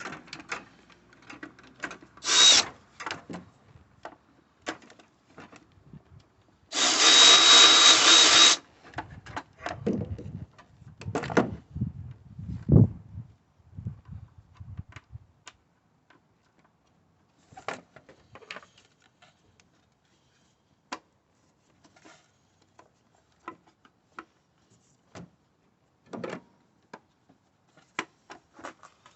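A power tool spins out a 10mm bolt holding the plastic engine cover, with a short burst about two seconds in and a steady run of about two seconds with a high whine near seven seconds in. Scattered clicks and knocks of tools and parts follow.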